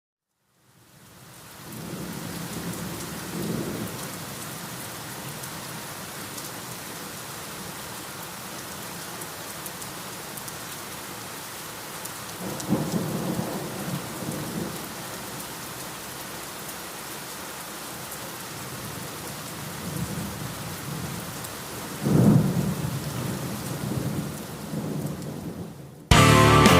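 Thunderstorm: steady rain fading in, with three low rolls of thunder, the last one the loudest. A heavy rock band cuts in abruptly at the very end.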